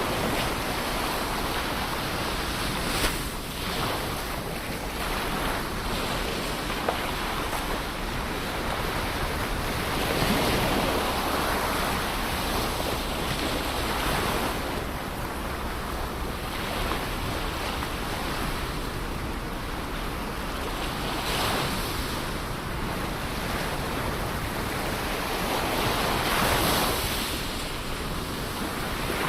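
Ocean surf washing onto the shore in repeated swells every few seconds, with some wind rumble on the microphone.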